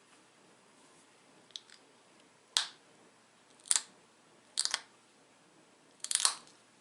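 Pressure flaking a small dacite point: four sharp snaps as flakes break off the edge, the later ones doubled, after a couple of faint ticks.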